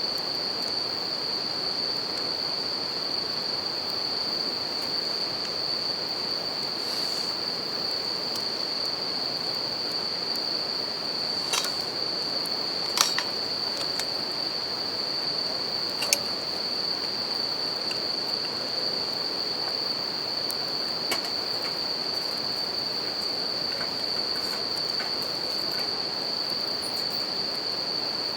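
Bell crickets (suzumushi) singing in one steady high tone over the even rush of a river, with a few sharp crackles and pops from a wood campfire, the loudest a double pop about halfway through.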